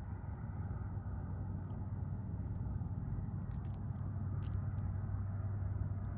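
Campfire crackling, with a few sharp pops of burning wood clustered about halfway through, over a steady low rumble.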